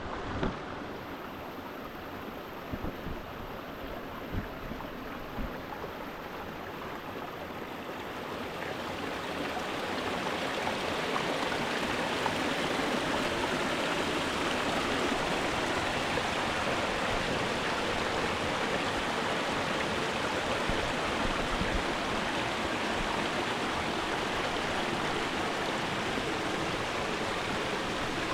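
Mountain stream rushing steadily over rocks, growing louder over the first ten seconds and then holding even. A few soft low thumps come in the first few seconds.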